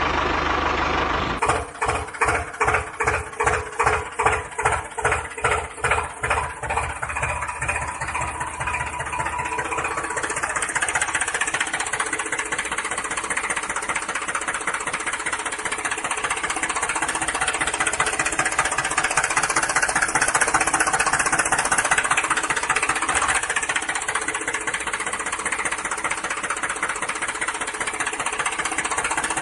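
Tractor engine running with a heavy knocking beat: slow, even chugs of about two a second for the first several seconds, quickening into a steady rattling run.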